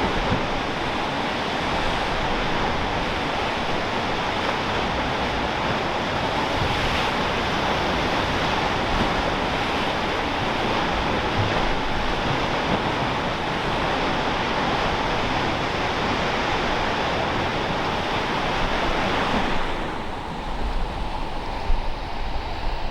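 Steady wash of Pacific surf breaking along the shore, mixed with wind. Near the end the surf fades and gusty wind rumbles on the microphone.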